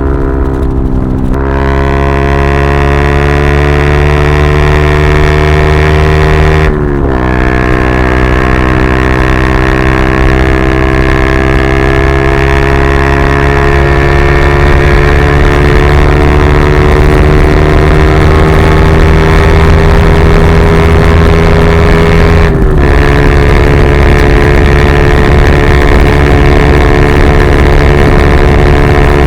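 Yamaha R125 single-cylinder four-stroke running through a straight-through Dominator GP exhaust while riding under load. The engine note climbs slowly and is broken three times by a short gear change that drops the pitch: near the start, about seven seconds in and near the end.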